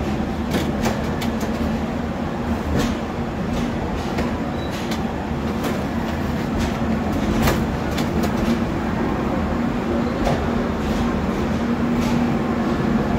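Passenger train rolling slowly out of a station: a steady low hum and rumble, with scattered sharp clicks from the wheels over the track at irregular intervals.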